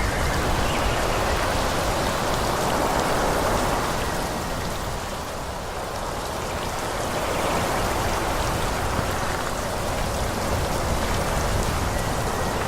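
Forest ambience: a steady rushing hiss that eases a little around the middle and swells again, with faint scattered ticks through it.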